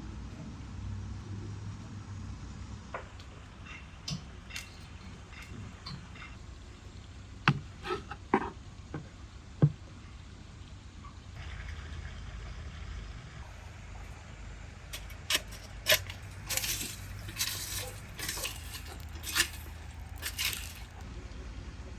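Scattered clinks and knocks of cooking utensils and dishes, a few of them sharp and briefly ringing about halfway through, followed near the end by a run of short scraping or rustling noises, over a steady low rumble.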